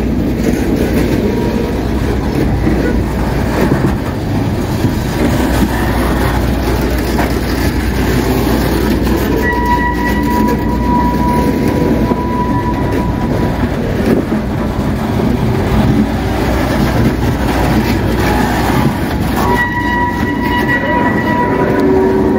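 Coal hopper cars rolling past on newly replaced rail, their steel wheels making a steady, loud rumble. A thin high squeal from the wheels comes in about ten seconds in and again near the end.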